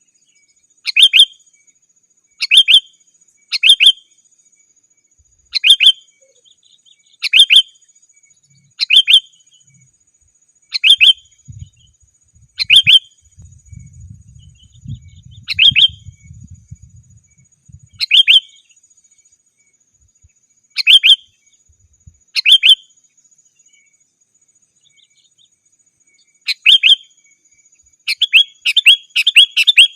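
Sooty-headed bulbul (kutilang) calling: short, sharp calls repeated about every one and a half to two seconds, breaking into a quick run of calls near the end.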